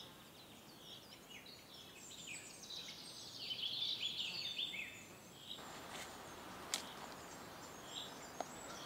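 Birds chirping, a dense chorus of short high calls that thins out about halfway through, over a faint outdoor hiss. A single sharp click about two-thirds of the way in.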